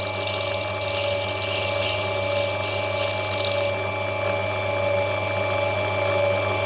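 Lapidary grinding machine running wet with a steady motor hum while an opal is pressed to the spinning wheel, giving a loud grinding hiss. The hiss stops about three and a half seconds in as the stone is lifted off, leaving only the machine running.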